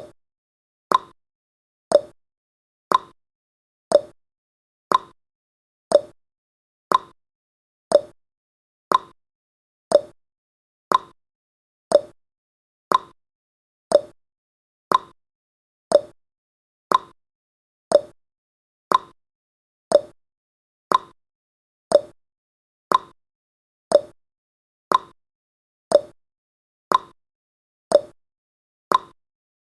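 A countdown timer's tick sound effect: one short click every second, each fading quickly, in a steady rhythm.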